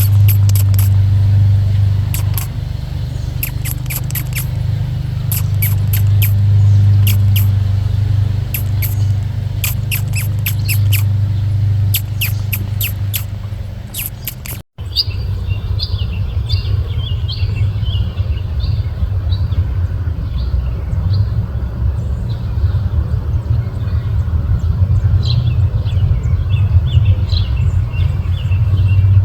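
Small birds chirping in quick, short, high calls over a steady low rumble, with a brief dropout about halfway.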